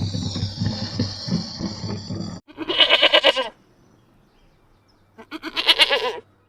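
Two separate bleats, each about a second long with a wavering pitch, a couple of seconds apart, from a goat or sheep; before them, other farmyard noise cuts off abruptly about two seconds in.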